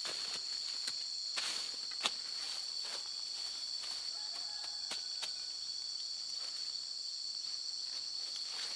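A steady, high-pitched insect chorus drones on without a break, with scattered light clicks and crackles over it, like steps or handling in dry leaves and twigs.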